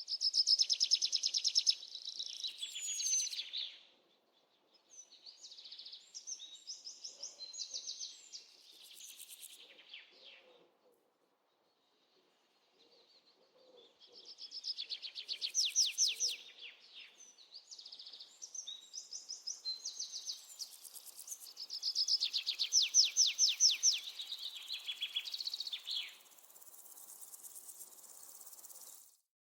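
Birds singing in bouts of rapid high-pitched trills and chirps, separated by short pauses.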